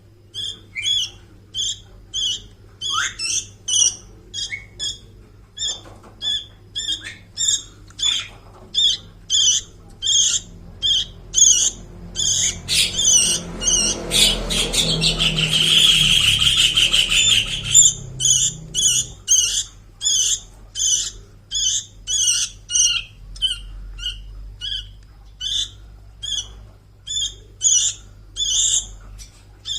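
Sooty-headed bulbul chick giving short, high begging calls, about two a second. A little before halfway they run together into a rapid, harsh chatter lasting about five seconds, and then the regular calls resume.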